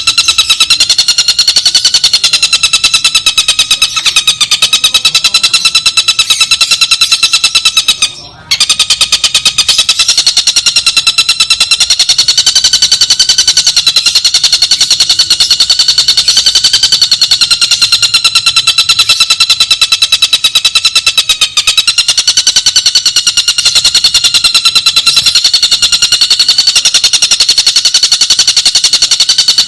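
Tengkek buto kingfisher singing a continuous, very fast rattling trill on one steady, slightly wavering pitch, with a brief break about eight seconds in.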